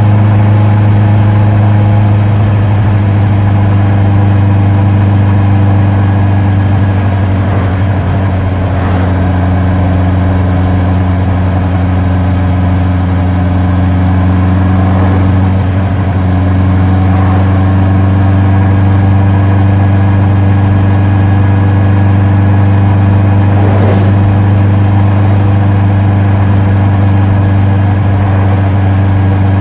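Honda CB650R's inline-four engine and exhaust running steadily while riding, with small shifts in pitch about 8 and 15 seconds in.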